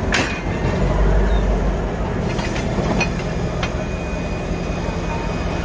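Steady rumble of a train, with a low hum and a few faint clicks.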